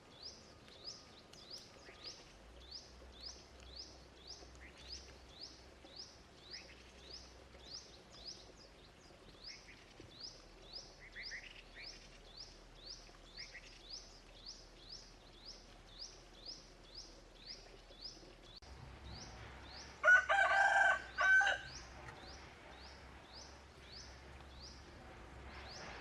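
A rooster crowing once, loud and about a second and a half long, about three quarters of the way through. Before it, a steady series of short high chirps, about two a second.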